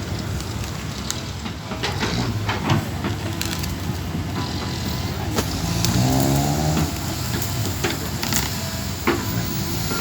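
Backhoe diesel engine running steadily under work, with repeated sharp knocks and cracks. About six seconds in there is a drawn-out pitched sound lasting about a second.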